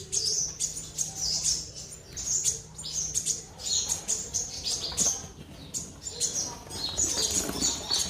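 Black-throated sunbird in full song: quick series of thin, high chirps and twittering phrases, repeated about every half second to a second, with scattered light clicks between them.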